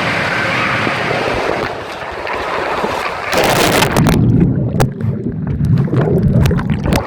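Rushing, splashing water with a steady noisy roar; about three seconds in, a sudden loud burst of splashing and buffeting right at the microphone, with a heavy rumble and sharp knocks.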